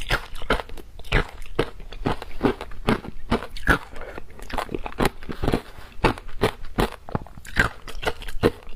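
Close-up crunching of ice being bitten and chewed, rapid irregular crackling crunches several times a second.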